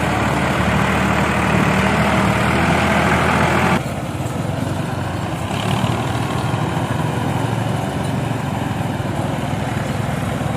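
Ford tractor's diesel engine running hard. About four seconds in it cuts suddenly to a quieter, steadier engine sound.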